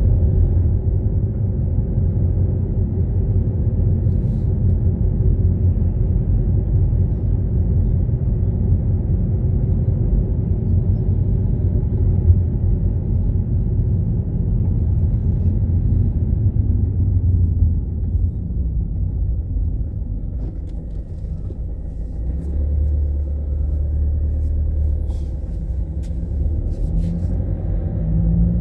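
A car driving, with a steady low rumble of engine and road noise that eases a little about two-thirds of the way through.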